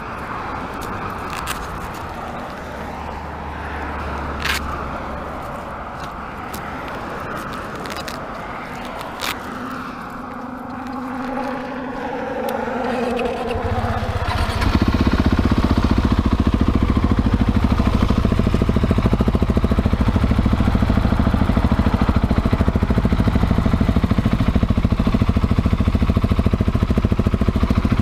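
Husqvarna 701 Supermoto's single-cylinder engine, fitted with a Leo Vince slip-on exhaust, comes in loudly about halfway through and then runs steadily, its firing pulses close together. Before that there is street background noise with a few sharp clicks.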